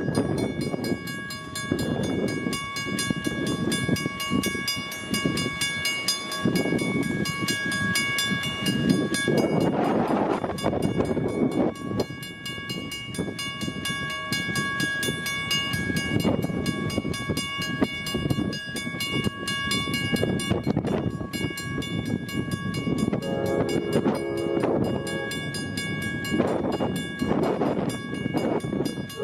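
Amtrak Northeast Regional train rushing through a grade crossing while the crossing's Western-Cullen-Hayes second-generation mechanical bell rings steadily. The train horn sounds about two-thirds of the way in and again at the very end.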